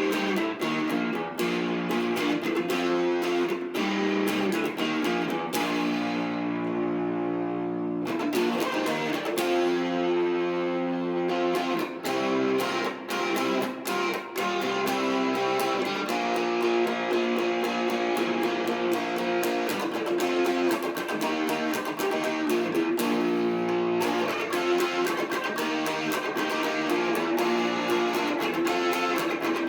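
Classic Vibe 70s Stratocaster electric guitar played through a Marshall MG30DFX amp with some gain, strumming rock chords and riffs. A chord is held and left to ring about six seconds in, and again a little past two-thirds of the way through.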